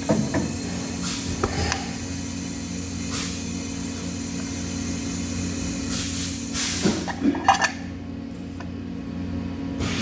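Steady low machine hum in a workshop, with several short bursts of hissing and a few sharp clicks and knocks.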